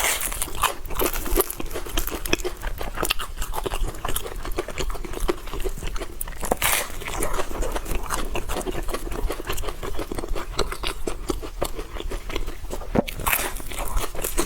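Close-miked biting and chewing of a crispy deep-fried cake, with a dense run of sharp crunches and crackles throughout.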